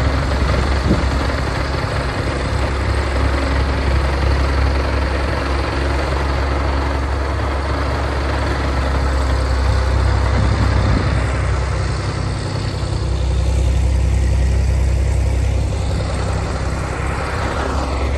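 Case IH Magnum tractor's diesel engine running steadily with a deep, even drone, under a continuous rushing noise.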